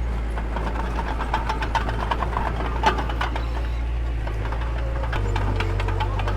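Diesel engine of heavy construction machinery running steadily, with rapid clicking and rattling over it and one louder clack about three seconds in; the engine note shifts slightly about five seconds in.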